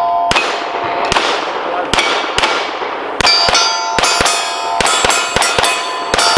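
Rapid string of pistol shots on a Steel Challenge stage, each hit on the steel plates answered by a bell-like ring. The shots come faster, several a second, over the second half.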